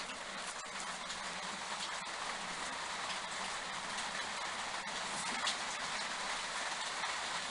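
Steady hiss with faint, irregular clicks and taps from handling the old bench drill's metal parts.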